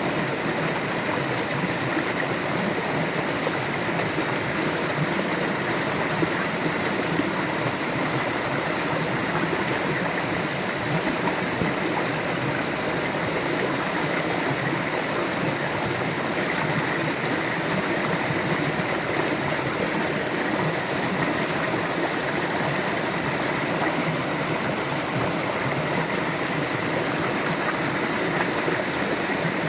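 River water flowing and gurgling over stones, a steady rushing with no pauses.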